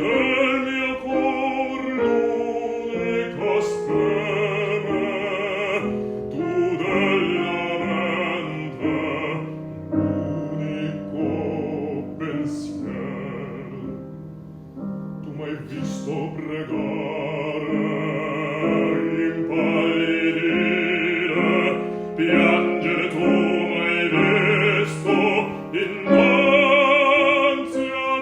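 Classical art song sung by a bass in operatic style with piano accompaniment, the voice holding notes with wide vibrato; it softens briefly about halfway through.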